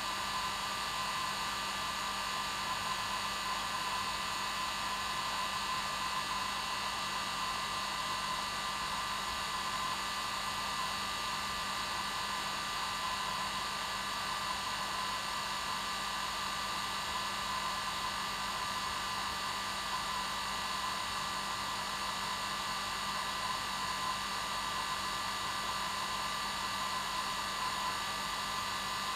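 Hair dryer running steadily on its normal setting: an even rushing whir of blown air with a constant motor hum and whine.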